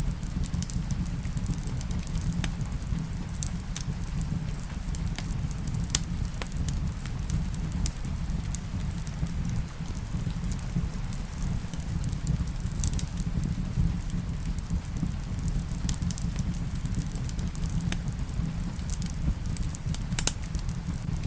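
Wood fire crackling in a fireplace, with irregular sharp pops and snaps over a steady low rumble, mixed with steady rain.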